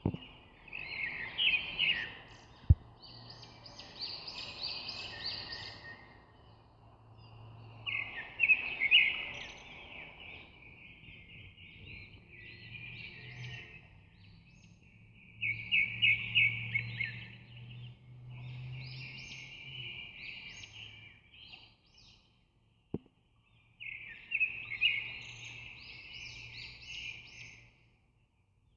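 Birds chirping in repeated phrases of quick notes, each about two seconds long, coming every few seconds over a faint low hum, with a sharp click about three seconds in.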